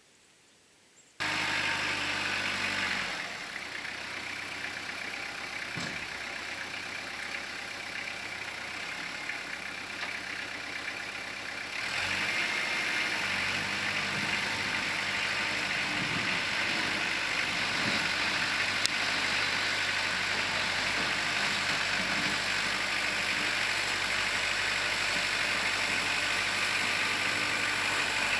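After a second of near silence, a Kubota L4600 tractor's diesel engine cuts in, running steadily; it drops a little in level around three seconds in and rises again around twelve seconds.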